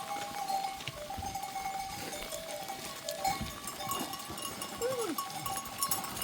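Bells on a herd of goats ringing steadily as the animals move, over scattered small clicks, with one short falling cry about five seconds in.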